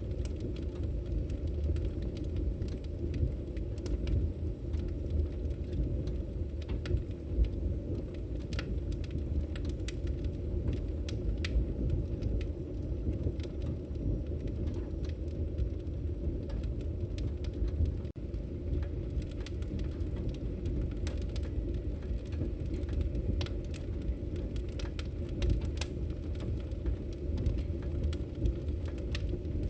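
Wood fire crackling in a fireplace: a steady low rumble of flames with frequent sharp pops and snaps scattered throughout.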